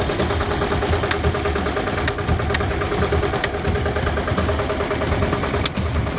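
The engine of an AC-10 farm machine running steadily, with a few sharp clicks scattered through it.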